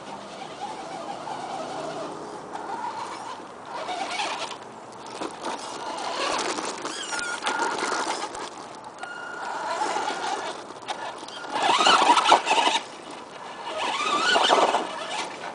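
Modified Tamiya DF02 RC monster truck's electric 540 motor and gears whining in repeated throttle bursts as it is driven over rocks, pitch rising and falling with each burst. The loudest bursts come near the end.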